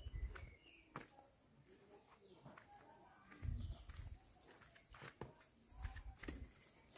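Birds chirping and calling, with short high chirps scattered throughout, and a few low muffled thumps about halfway through and again near the end.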